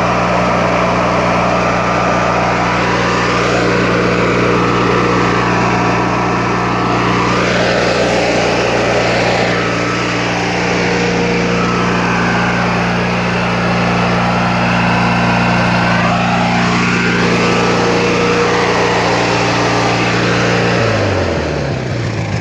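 Briggs & Stratton 16 hp, 656 cc opposed-twin engine of a Simplicity 6500-series garden tractor running steadily at full throttle, freshly cold-started. Near the end the engine speed drops.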